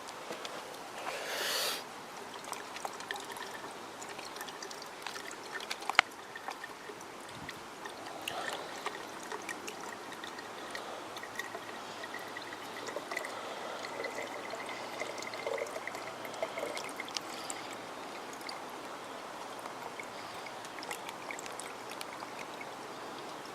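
Water trickling and dripping as stream water filters through a Sawyer squeeze filter into a bottle, with the small stream running nearby. A short rush about a second in and a single sharp click about six seconds in.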